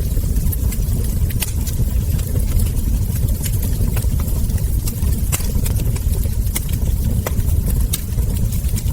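Wood fire crackling, with frequent sharp irregular pops and snaps of burning logs over a steady low rumble.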